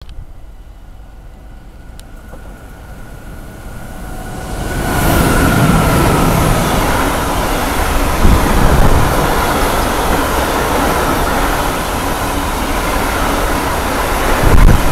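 Empty ore train passing at speed behind two Class 189 electric locomotives. The sound swells over the first few seconds as the locomotives near, with a tone that drops slightly in pitch as they go by about five seconds in. Then comes a loud steady rumble and rattle of empty hopper wagons on the rails, with a few heavy wheel thumps.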